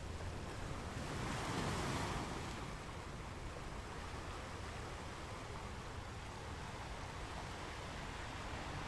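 Pen writing on kraft paper: a soft, steady scratching over a constant background hiss, a little louder between one and two seconds in.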